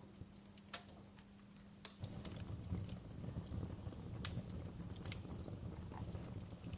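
Wood fire in a fireplace crackling, with scattered sharp pops and snaps. A low rumble of the burning fire comes up about two seconds in and holds.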